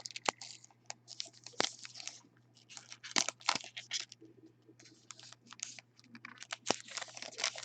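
A trading-card pack wrapper being torn open and crinkled in the hands, in short irregular rustles and clicks with pauses between. A faint steady low hum runs underneath.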